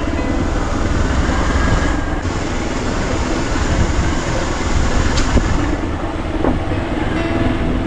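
Motorbike ridden over a rough, unpaved mountain road: a steady engine and road rumble with continuous rattling and a few sharp knocks from the bike jolting over the surface.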